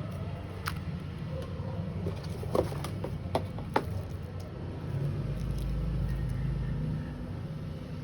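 A handful of light clicks and taps, most of them between about two and four seconds in, over a steady low rumble.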